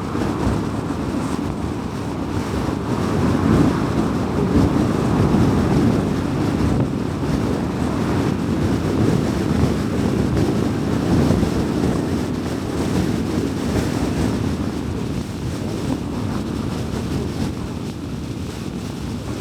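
A car driving on a city road: steady tyre and road noise with engine hum, swelling slightly and easing off as it goes.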